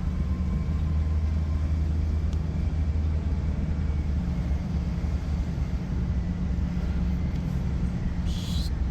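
Steady low rumble of a motor vehicle running, with an even engine hum, and a short hiss near the end.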